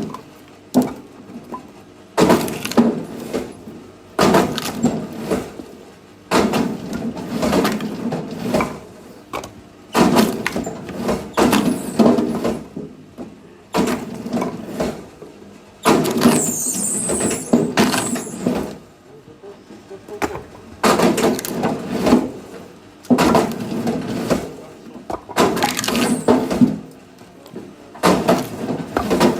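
Firewood cracking and clattering in a repeated burst about every two seconds, each burst starting sharply and lasting a second or two.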